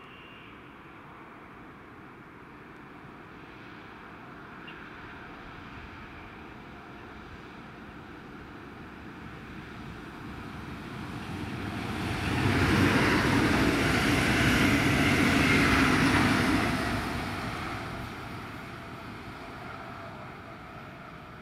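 Munich S-Bahn class 423 electric multiple unit, two sets coupled, passing by: a faint rolling sound that grows as it approaches, turns loud about 12 s in as the train goes past, holds for about four seconds, then fades as it moves away.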